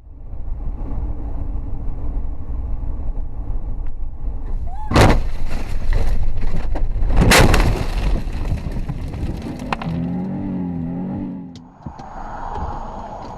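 Road and engine noise inside a moving car, broken by two loud crashing impacts about five and seven seconds in: a car collision. A short wavering tone follows near the end.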